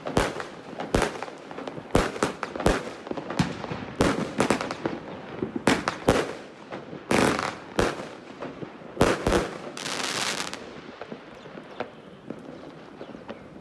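Hanssons Heavy Thunder consumer firework cake (36-shot, 20 mm) firing a string of sharp, irregular bangs, some in quick pairs. About ten seconds in comes a second-long burst of hissing crackle, after which it dies down to a few faint scattered pops.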